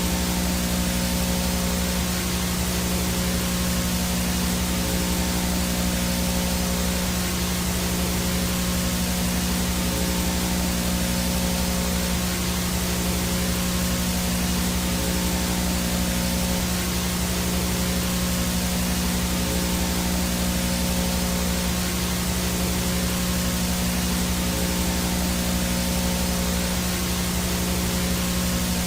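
VHS static noise from a tape or signal with no picture: a steady, even hiss with a constant low hum under it and a thin high whine above it.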